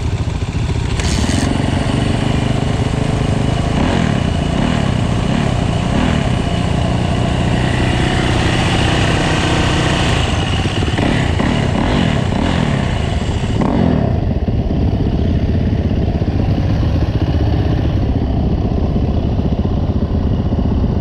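A 2009 Yamaha YZ450F's single-cylinder four-stroke engine running, its pitch rising and falling several times between about four and thirteen seconds in as the throttle is worked.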